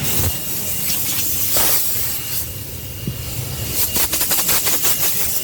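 Car wash running: a steady hiss of water spray over a low machine hum, with a rapid patter of slapping strokes about four seconds in.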